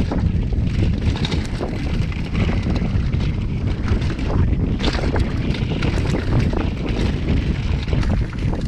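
Wind buffeting a chest-mounted action camera's microphone at speed on a downhill mountain bike, over a steady rumble of tyres on dirt, with scattered short clicks and rattles from the bike over rough ground.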